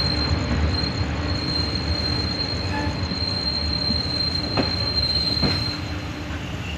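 Passenger train coaches rolling slowly into a station: low rumble of the running gear with a steady high-pitched squeal that stops near the end, as the train slows to stop. Two clacks from the wheels come shortly before the squeal ends.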